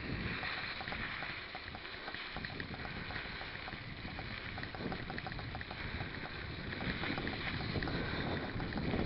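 Mountain bike rolling along: wind rushing over the microphone over tyre and drivetrain noise, with a rapid light ticking.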